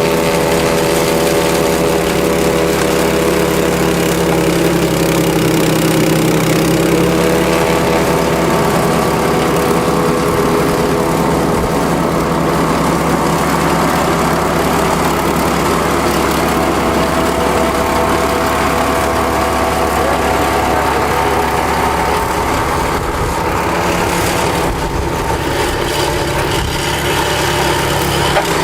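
Kubota L5740 tractor's diesel engine running steadily, its pitch sagging briefly about six seconds in before holding even again.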